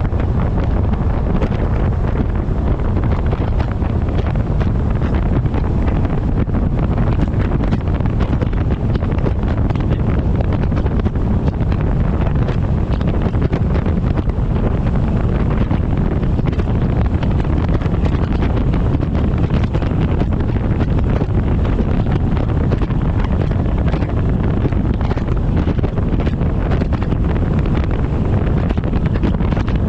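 Steady, heavy wind noise buffeting the microphone of a camera strapped to the front of a moving truck, a dense low rush with no letup.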